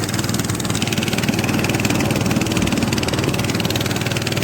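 Small boat motor running steadily, a rapid even firing rhythm with no change in speed.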